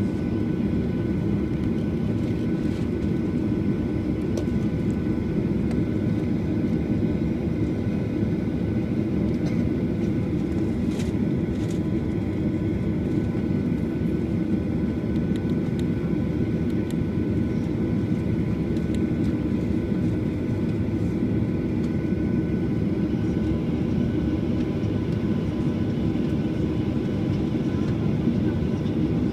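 A steady engine drone with a constant hum of even tones running through it, unchanging throughout.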